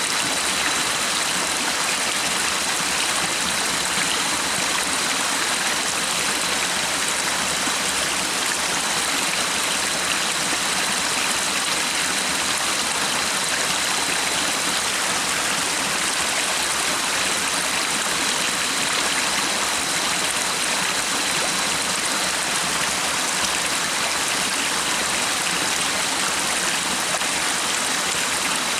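Stream of water running steadily: an even, unbroken rushing.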